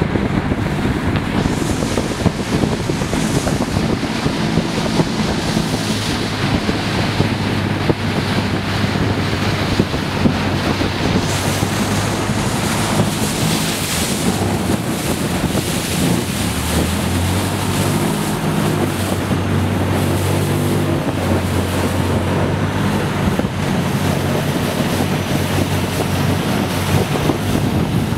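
Long-tail boat engine running steadily under way, with water and wind rushing over the microphone. About halfway through the engine note drops briefly and then climbs back up.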